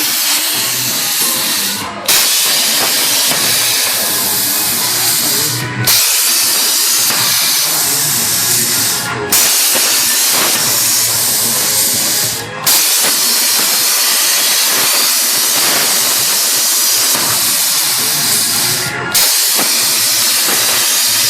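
CNC plasma cutter running: a loud, steady hiss of the cutting arc and its compressed air, broken by a brief gap every few seconds.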